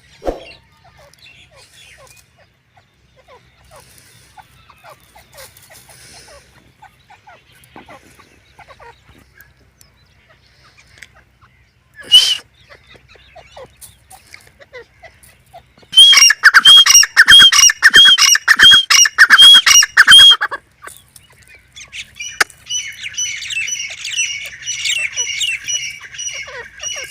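Grey francolin calling: a loud, fast run of repeated harsh notes for about four seconds past the middle, then a quieter repeated series near the end, with faint chirps of small birds in between.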